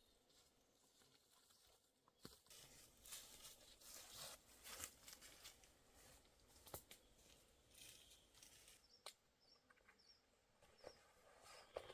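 Near silence with faint rustling and scattered light taps, and a few short, faint high chirps in the second half.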